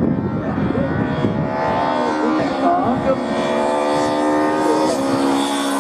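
Hill-climb race car's engine at high revs, holding a steady pitch that steps down about two and a half and five seconds in.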